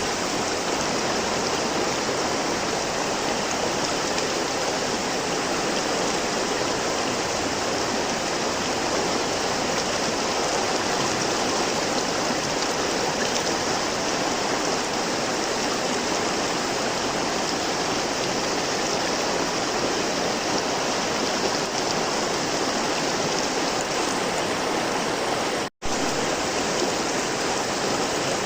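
River water flowing and splashing steadily. The sound is broken once near the end by a split-second gap of silence.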